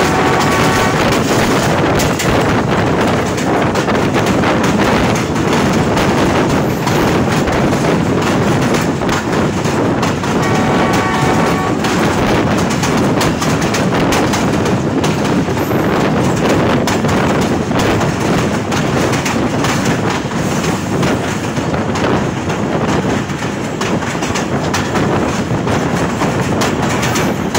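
Diesel locomotive running under power with its train, the wheels clacking over rail joints. A horn sounds briefly at the start and again about ten seconds in.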